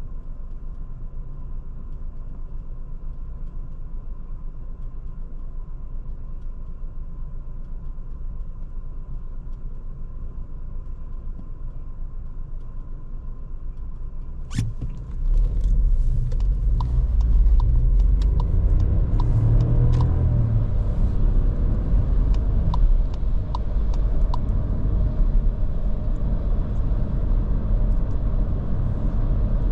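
Cabin sound of a Škoda Kamiq's 1.0 TSI three-cylinder turbo petrol engine and road noise: a steady low hum for the first half. About halfway through comes a sharp click, after which the sound gets louder, with a heavier low rumble, road noise and small ticks.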